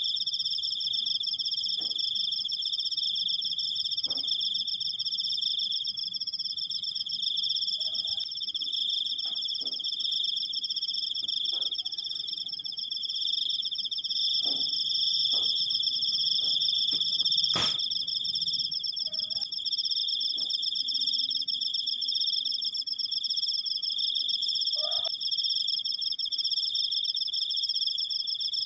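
Crickets trilling in one long, unbroken, steady high-pitched 'krik', two pitches sounding together. A few faint short calls from another animal come through now and then, and there is a single sharp click a little past the middle.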